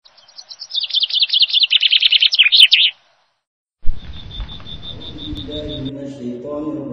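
Songbird twittering, a quick run of high chirps that stops abruptly about three seconds in. Just under a second later a different sound takes over: a low rumble under a pulsing high tone, then a few held low tones.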